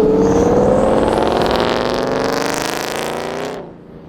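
Car engine revving hard under full acceleration, its note climbing steadily, then cutting off abruptly about three and a half seconds in as the throttle closes.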